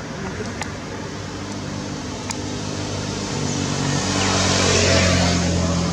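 A motor vehicle's engine hum that grows louder toward a peak about five seconds in, as if passing close by, with a few faint clicks.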